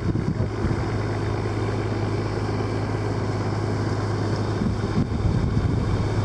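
Boat engine running at a steady low drone while under way.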